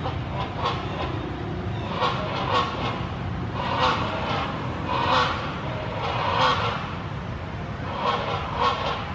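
Baby monkey crying in a string of short cries, about seven over several seconds, over a steady low rumble.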